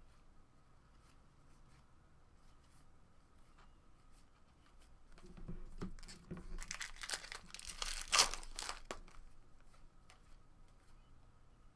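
A baseball-card pack wrapper being torn open and crinkled: a few seconds of crackling and tearing about halfway through, loudest near its end, with light clicks of cards being handled before and after.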